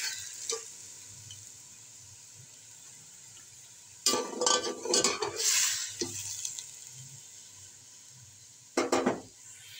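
Chicken, tomatoes and ground spices sizzling with a little water in a metal pot as the masala is fried with the chicken (bhuna stage). A spoon stirs and scrapes against the pot for about two seconds in the middle, and again briefly near the end.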